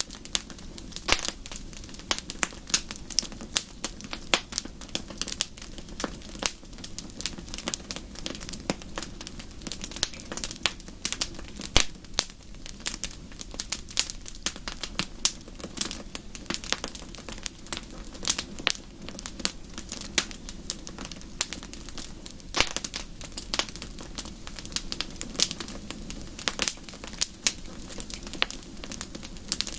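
Wood fire crackling in a fireplace, with frequent irregular sharp pops and snaps over a steady low rumble of burning.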